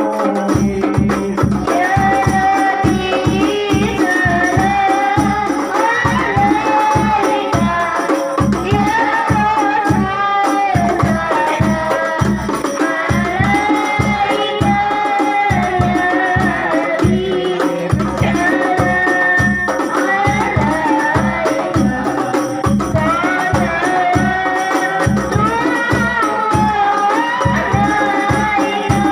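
Sholawat, an Islamic devotional song in praise of the Prophet, sung as a melody over a steady, fast beat of hand-struck frame drums with jingles.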